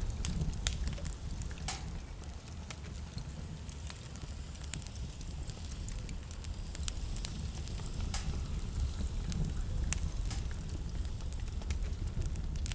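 Wood fire crackling in a fireplace: a steady low rumble of flames with sharp pops and snaps at irregular moments.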